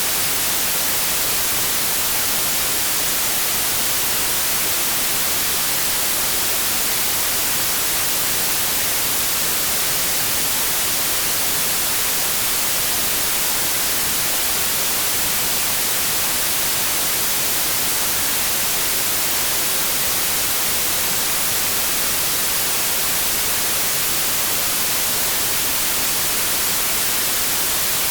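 Steady, unchanging white noise: an even static hiss, with no tones or other sounds.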